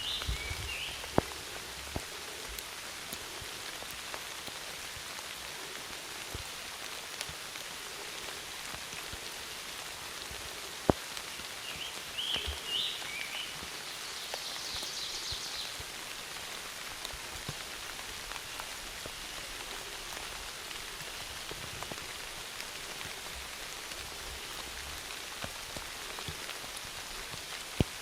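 Steady rain falling on the woods, with a few sharp taps of heavy drops, the loudest about a second in and about eleven seconds in. Short high chirps come through twice, near the start and about twelve seconds in.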